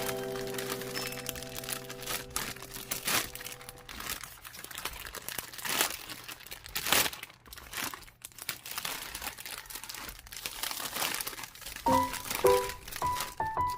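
Irregular crinkling and crackling handling sounds, a run of sharp clicks and rustles. Soft background music plays over it: a held chord fades out over the first few seconds, and a new melody of single notes begins near the end.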